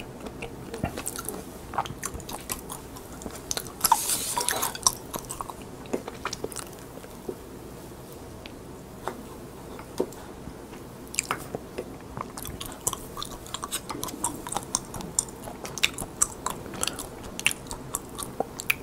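Close-up biting and chewing of crisp flavoured roasted seaweed (gim): dry, crackling crunches. There is a louder crackle about four seconds in and a quieter spell in the middle before the crunching picks up again.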